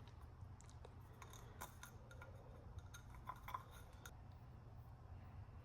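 Near silence over a low steady hum, with scattered faint clicks and light clinks of small parts being handled: the new oil-filter gasket being oiled and fitted onto the filter housing cap.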